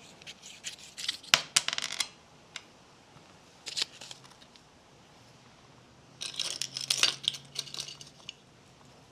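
Packaging being handled and opened: bursts of crinkly rustling and tearing with sharp clicks, the longest near the end.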